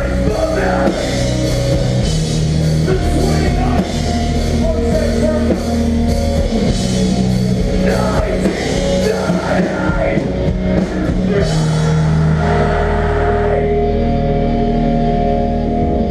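Live heavy rock band playing loud: distorted electric guitars, bass and a drum kit with crashing cymbals. About three seconds before the end the drums and cymbals stop, and only held, ringing guitar and bass chords carry on.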